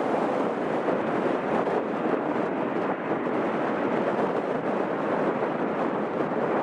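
Steady roar of airliner jet engines, an even rushing noise without distinct tones or breaks.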